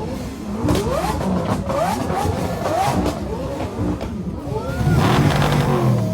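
A car engine revved in a series of quick blips, each rising in pitch. About five seconds in it settles into a louder, steadier note.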